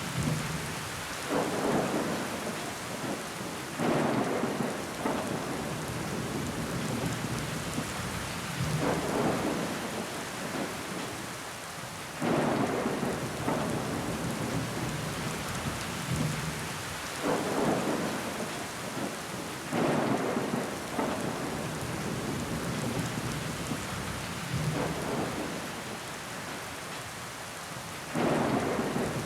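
Steady rain pattering on window glass, with water running down the pane. Louder swells of a second or so come every few seconds.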